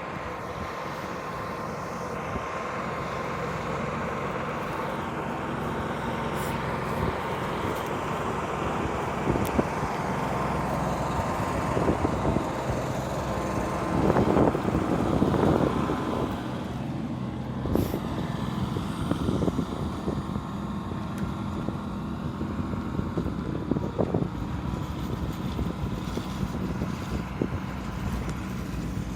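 Motor traffic, with one vehicle passing, loudest about halfway through.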